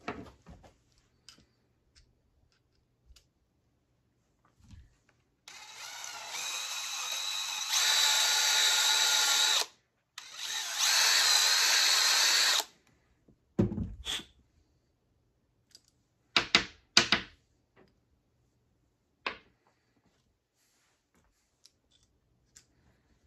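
A small power tool's electric motor runs in two bursts of several seconds each, the first stepping up louder partway through, followed by a few short knocks of handling.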